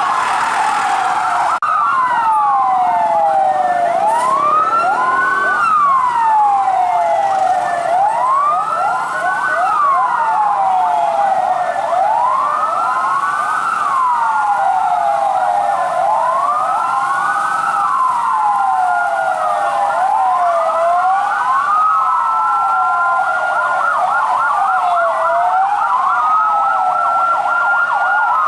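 Several fire truck sirens wailing at once, each rising and falling about every four seconds and out of step with the others, with one holding a steady high note for a few seconds near the end.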